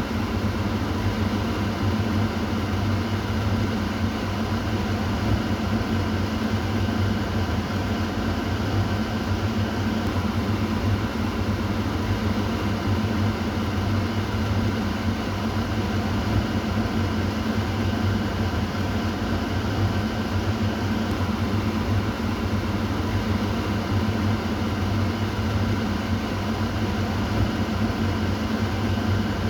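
Kitchen exhaust fan running steadily: an even whooshing hiss of moving air over a low motor hum.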